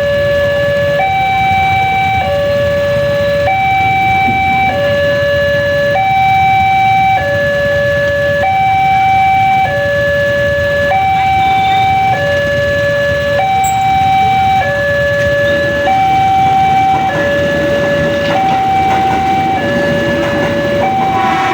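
Indonesian railway level-crossing warning alarm sounding a loud electronic two-tone hi-lo signal, each tone held about a second before switching. Near the end a rumble builds underneath as a train approaches.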